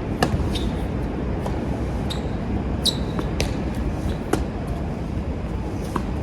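Tennis balls being struck and bouncing on a hard court, about half a dozen sharp, irregularly spaced pops. Strong wind buffets the microphone throughout as a steady low rumble.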